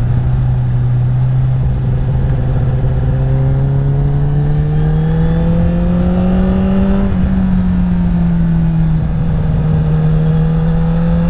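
Honda CBR1000RR sport bike's inline-four engine under way, its note climbing slowly and steadily for about seven seconds, then easing down a little and holding steady. Wind and road rush on the bike-mounted microphone.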